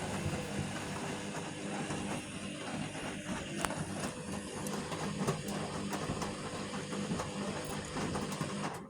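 Vestel CM8710 washing machine running its final rinse: the motor turns the drum with a steady hum and light rattling, then stops abruptly at the very end.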